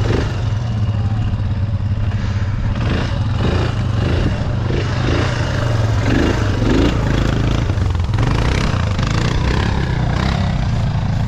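ATV engine running steadily at low to moderate revs, with scattered clattering.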